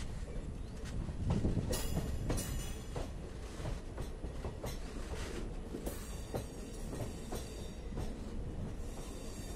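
Indian Railways passenger coach running along the track, heard from its open doorway: a steady rumble of the wheels on the rails with sharp clicks at irregular intervals as the wheels pass over rail joints, and a brief hiss or screech about two seconds in and again about six seconds in.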